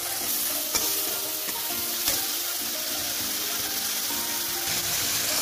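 Garlic paste, onions and spices sizzling in hot oil in a kadhai, with a metal spatula stirring against the pan and two sharp clacks, about a second and two seconds in.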